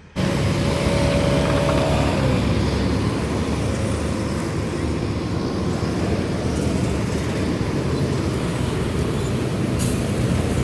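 Steady motor-vehicle rumble that starts abruptly just after the beginning, with a faint whine during the first two seconds.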